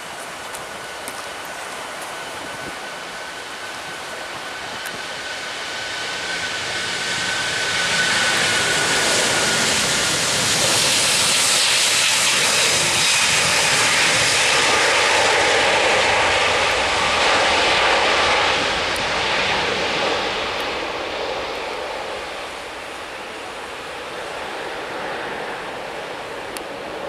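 Jet airliner passing by, its engines giving a slightly falling whine before a broad jet noise swells, stays loud for over ten seconds, and fades away.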